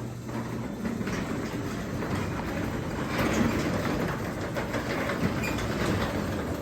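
Craftsman 3/4 hp belt-drive garage door opener with a DC motor running, raising the garage door. A steady motor hum is joined from about a second in by the rattle of the door travelling along its tracks.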